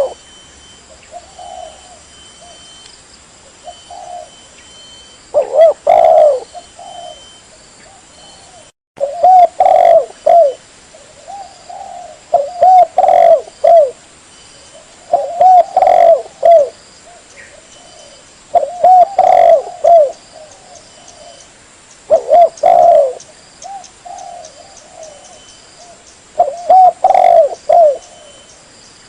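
Spotted dove (tekukur) cooing: short phrases of low, bubbling coos repeated every two to four seconds, played as a lure call.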